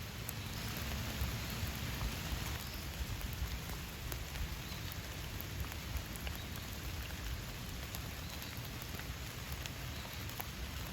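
Steady rainfall, with scattered drops ticking on surfaces.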